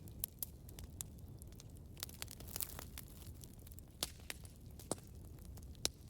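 Wood campfire burning, with a steady low rumble and irregular sharp crackles and pops, a few louder snaps among them.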